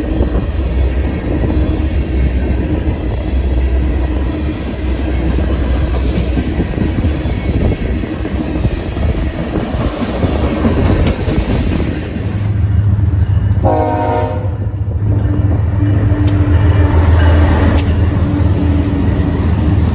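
Freight train of tank cars rolling past, with steel wheels clicking over rail joints. About two-thirds of the way through, a short train horn blast sounds and the sound changes to BNSF diesel locomotives passing with a deep steady engine rumble.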